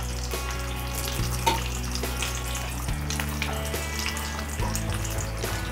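Singaras shallow-frying in hot oil, a steady sizzle with light crackling as they are turned over with a metal spoon. Background music with held low notes plays under it.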